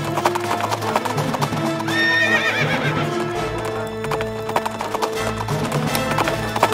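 Horses' hooves galloping in a rapid clatter over dramatic music, as for a chariot race, with a horse whinnying about two seconds in.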